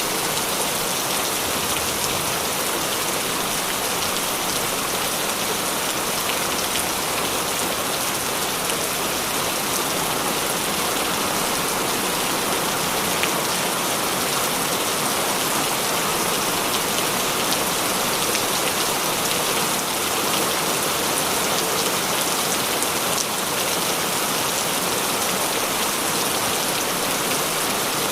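Heavy rain falling steadily, a dense even hiss of drops with small scattered patters.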